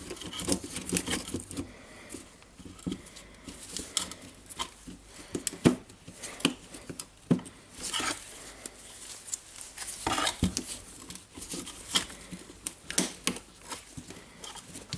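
Irregular clicks, taps and light knocks of the impact driver's plastic housing and internal parts being handled and fitted together during reassembly.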